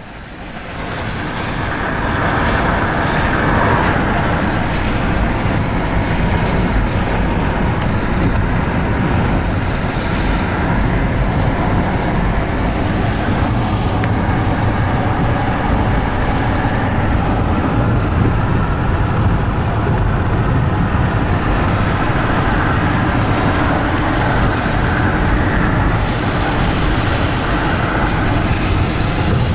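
Car driving on the road: steady tyre, wind and engine noise, building over the first three seconds and then holding level.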